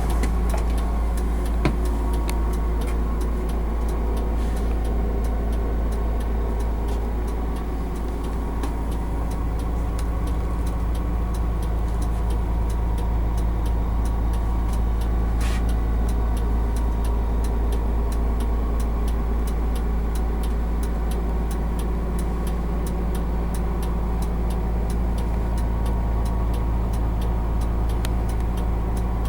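Cummins ISM turbo diesel in a coach bus idling steadily, with a faint regular ticking over the hum.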